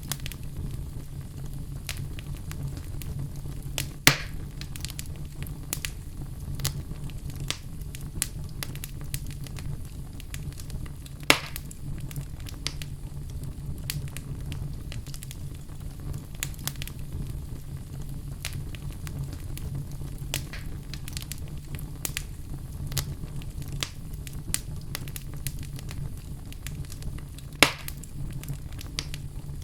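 Wood fire burning in a fireplace: a steady low rumble with frequent small crackles, and three louder pops, about four seconds in, about eleven seconds in and near the end.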